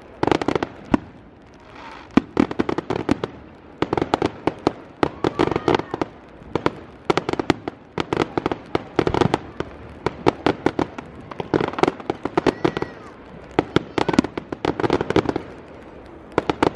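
Aerial fireworks display: repeated clusters of sharp crackles and bangs from bursting shells, coming in waves every second or two, with a short lull about a second in.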